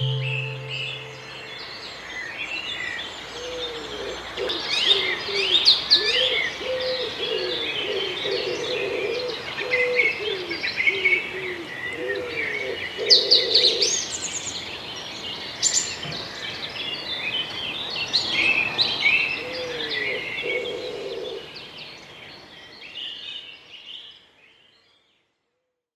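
Birds calling: many quick high chirps and trills over a lower, wavering hooting call, fading out near the end. A held ambient-music drone dies away in the first second or two.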